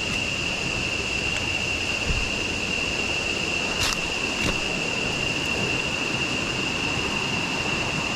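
Steady rushing of river water with a constant high-pitched tone running through it, and two faint clicks near the middle.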